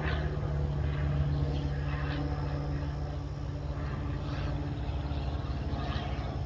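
A steady engine drone with held low tones, with short higher-pitched sounds recurring every second or so over it; it cuts off abruptly at the end.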